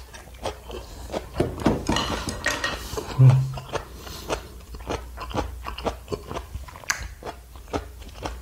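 A man chewing a mouthful of tteokbokki with crunchy pickled radish (danmuji), close to the microphone: many small wet mouth clicks and crunches, with a brief hummed "mm" about three seconds in.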